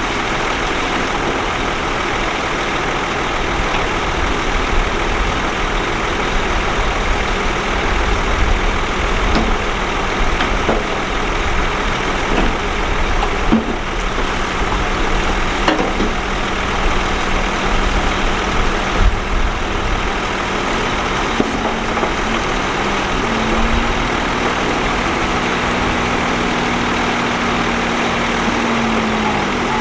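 Heavy earthmoving machinery's diesel engine running steadily, its tone stepping up a little about two-thirds of the way through, with a few scattered knocks and clanks.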